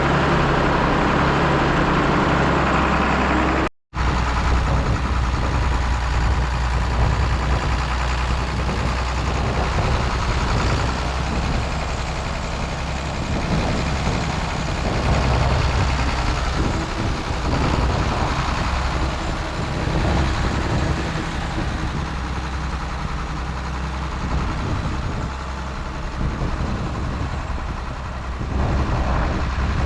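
A John Deere 4840 tractor's six-cylinder diesel engine running steadily under load as it drives over loose fill dirt to pack it down. The sound cuts out for an instant about four seconds in, then the engine carries on, its level rising and falling a little.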